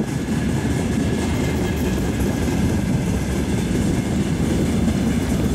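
Freight train of open gondola wagons rolling past close by: a steady, heavy rumble of steel wheels on the rails.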